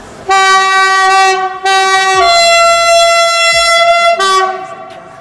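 Railway horn sounding in two tones. A high note, a brief break, the high note again, then a drop to a lower note held about two seconds, and a short return to the high note before it stops.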